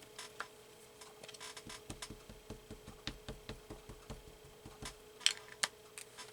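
Light taps and clicks of clear stamps and a stamping block handled on a worktable: a run of quick soft ticks in the middle, then a few sharper clicks near the end.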